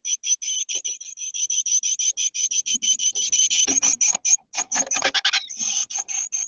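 Small bird in a nest box giving a fast chattering series of short high notes, about seven a second. Scratching and knocking inside the box sound through the middle of it.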